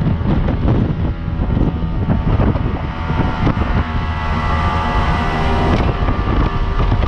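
Jet boat under way, its engine and jet drive running steadily with a whine that stands out in the middle seconds, under heavy wind buffeting on the microphone.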